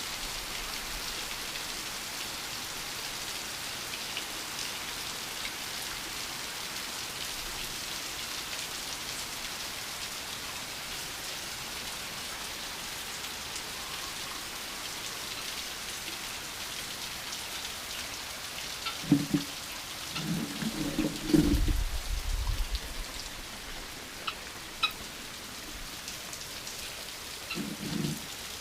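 Light, calm rain falling steadily with no wind, an even patter throughout. A few brief low rumbling sounds rise over it about two-thirds through and again near the end.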